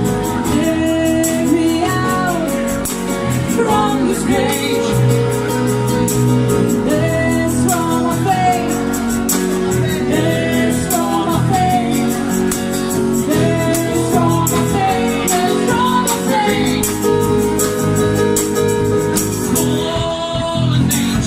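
A band playing a song on acoustic instruments, with a singing voice carrying the melody over steady chords.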